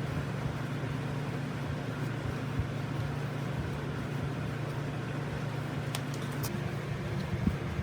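A steady low mechanical hum with noise over it, and a few light clicks about six seconds in.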